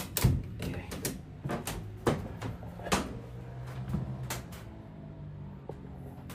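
Ratchet tie-down strap being cranked tight on a race car, a run of irregular metallic clacks that thin out about five seconds in, over a steady low hum.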